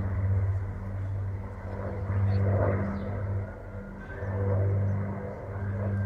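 Avro Lancaster's four Rolls-Royce Merlin piston engines droning, the sound swelling and fading every couple of seconds.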